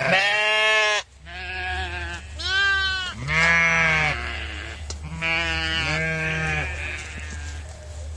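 Sheep or goats bleating: about six wavering bleats in a row, each lasting roughly a second, over a steady low hum.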